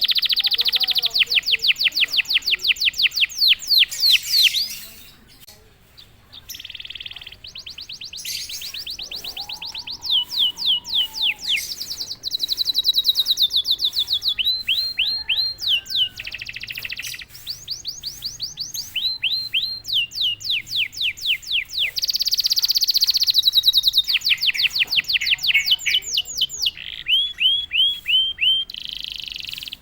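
Domestic canary singing a long song of fast trills: each trill is a quick run of repeated identical notes, switching to a new note type every second or two, with a brief pause about five seconds in.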